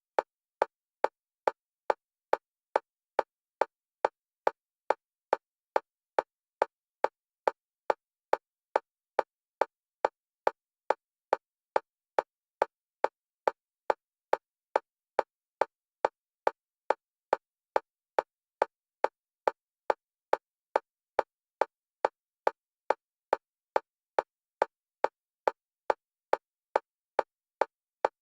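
Fast, evenly spaced electronic metronome clicks for EMDR bilateral stimulation, all at one pitch, about two and a half a second, alternating between the left and right channels.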